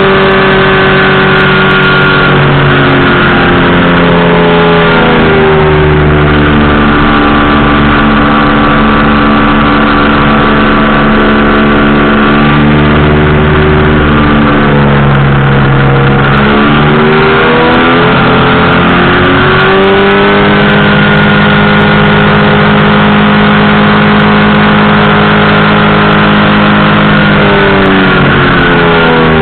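Powered parachute's engine and propeller running loud and continuously, the pitch sagging and climbing again several times as the throttle is eased off and opened up.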